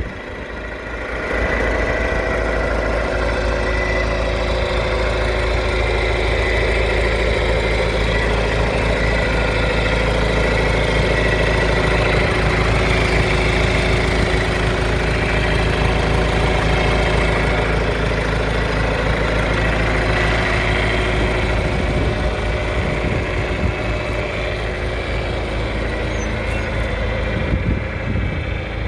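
John Deere 410-D backhoe loader's diesel engine running steadily, getting louder about a second and a half in and holding there.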